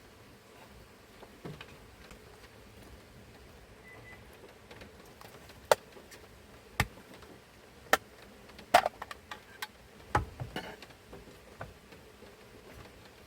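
Scattered sharp clicks and knocks, like objects being handled and set down, several close together about nine seconds in, over a faint steady background hiss.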